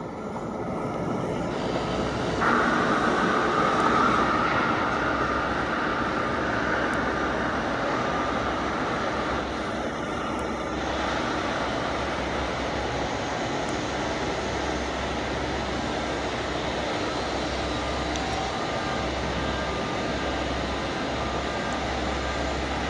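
Steady outdoor city noise with an aircraft passing overhead: it swells a couple of seconds in, then slowly fades away.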